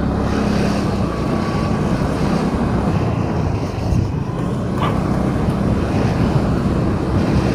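Car driving in city traffic: a steady rumble of engine and road noise, with a brief higher sound about five seconds in.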